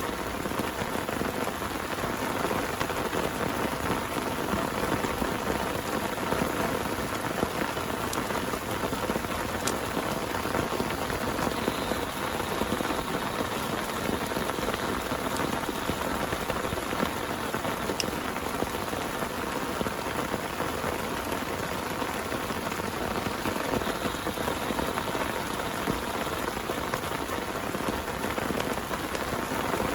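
Heavy rain falling steadily on a surface, an even downpour with an occasional sharper tick of a single drop.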